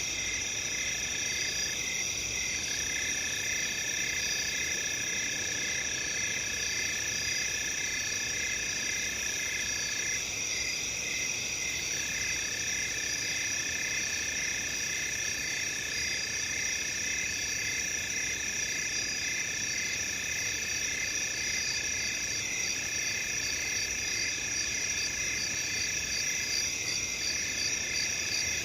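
A steady night chorus of crickets chirping, several overlapping trills, some pulsing rapidly and some held as continuous high tones.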